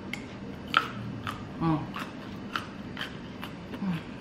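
Close-up chewing of petai (stink beans): a string of sharp, crisp crunches and mouth clicks as the firm beans are bitten, with two short hums of the mouth closed.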